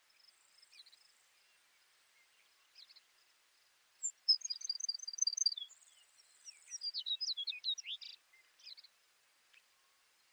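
Baird's sparrow singing: a burst of song about four seconds in, a row of quick high repeated notes, a short buzzy trill, then a tumble of sliding notes, over a faint steady high insect hiss.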